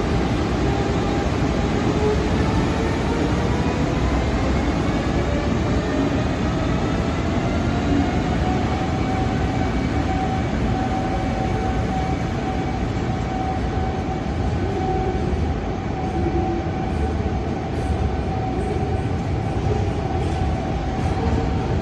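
EF510 electric locomotive pulling a freight train away from a stand: its inverter-driven traction motors whine, rising in pitch over the first several seconds, then holding a steady tone, over the steady rumble of the train rolling on the rails.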